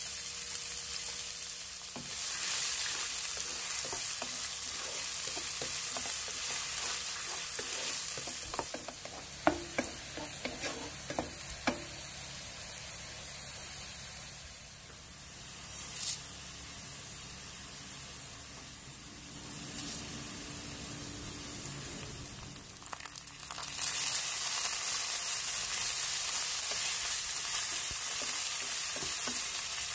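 Food frying in hot oil in a pan, a steady sizzle, with a few sharp clicks around ten seconds in. The sizzle grows clearly louder about 24 seconds in.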